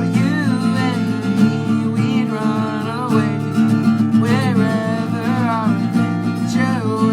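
Acoustic guitar strummed in a steady rhythm, capoed at the fifth fret, working through simple open chords (C, A minor, F). A man sings the verse melody over it in short phrases.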